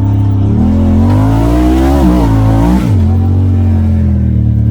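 Side-by-side UTV engine under throttle: the revs climb for about two seconds with a rushing hiss over them, then drop back about three seconds in to a steady run.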